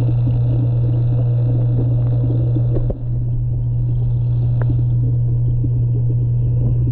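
Steady low machine hum, unbroken apart from a brief dip about three seconds in.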